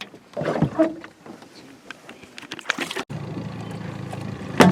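Knocks, scrapes and handling noise in a boat, likely a fish being taken out of the live well. After an abrupt break comes a steady low motor hum, with one sharp knock near the end.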